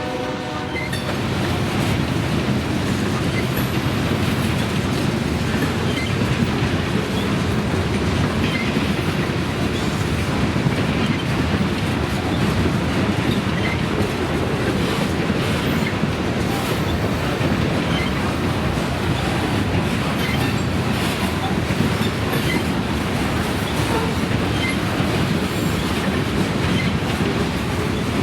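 Freight train rolling past: a steady rumble of wheels on the rails with scattered clicks. The tail of a horn blast ends about a second in.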